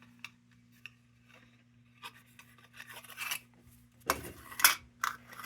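Small metal lantern parts being handled and set in place on a workbench: scattered light clicks, then a louder bout of scraping and rubbing about four seconds in, over a faint steady electrical hum.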